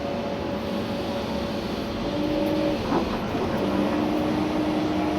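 Komatsu PC290-11 excavator's diesel engine and hydraulics running under work, heard from inside the cab, with a steady whine that shifts in pitch and a short knock about three seconds in.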